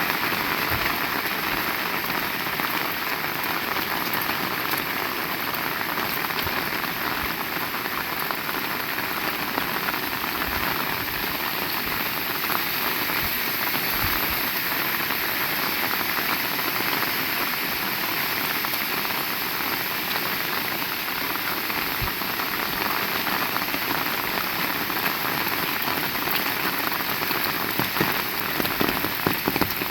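Heavy rain falling steadily, with scattered sharper drop impacts that grow more frequent near the end.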